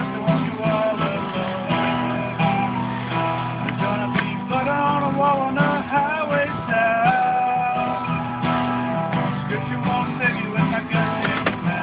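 Acoustic guitar strummed steadily, with a recorder playing the melody over it in held, wavering notes.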